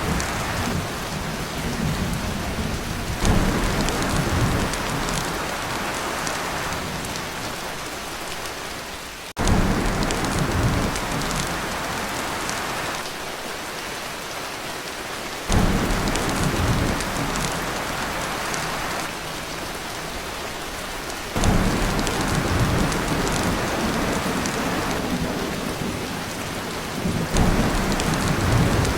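Heavy rain drumming on a tin roof, with low thunder rumbles that come in suddenly about every six seconds.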